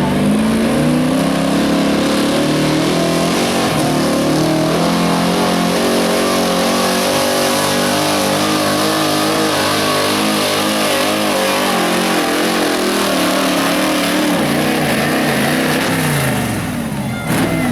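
Pulling truck's engine at high revs under load. Its pitch climbs over the first few seconds, wavers as it pulls, then the revs fall away near the end. A single sharp bang just before the end.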